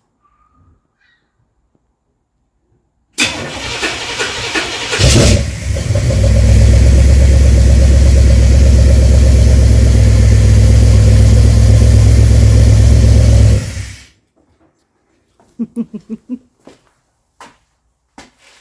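A Chevrolet V8 in a Corvette is cranked by the starter about three seconds in and catches, then runs loudly and steadily through a new dual exhaust with Flowmaster mufflers before being shut off suddenly. It starts with the key now that the shifter's park-signal plug is connected. A few faint knocks follow.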